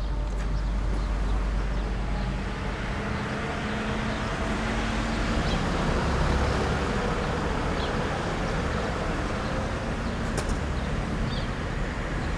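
Steady outdoor rumble of engines and traffic, with a low hum running through it.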